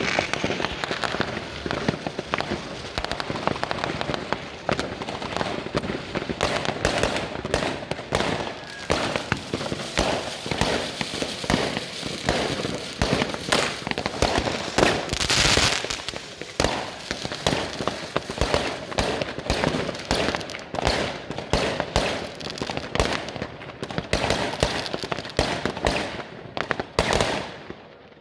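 Fireworks and firecrackers going off in a dense, continuous barrage of overlapping bangs.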